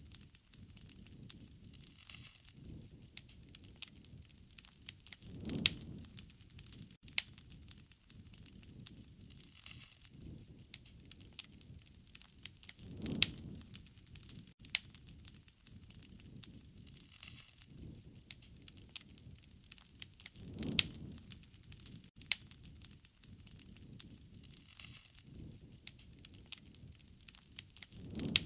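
Wood fire crackling and popping with many sharp, irregular snaps. A low rush of flame swells and fades about every seven or eight seconds.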